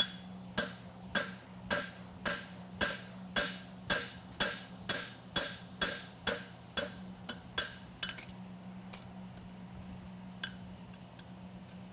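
Blacksmith's hammer striking a hot steel horseshoe on the anvil in an even rhythm, about two ringing blows a second, cropping the shoe's heels off; the blows stop after about seven seconds, leaving a few light taps.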